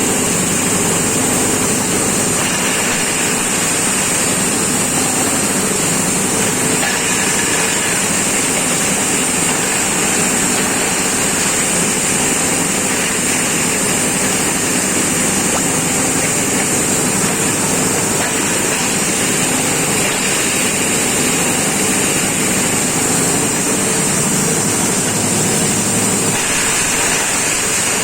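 Grass-chopper machine used as a corn-cob mill running steadily at full speed, grinding corn cobs, with a continuous loud machine noise and a strong hiss. Its tone shifts slightly a few times as the load changes.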